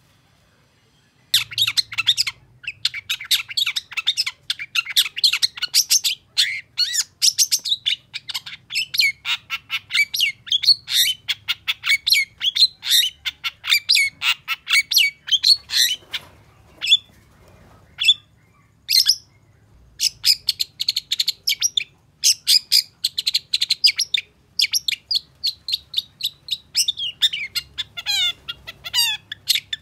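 Long-tailed shrike (cendet) singing a fast, dense stream of high chirps and sharp notes, starting about a second and a half in, with a short thinner stretch midway before the rapid song resumes.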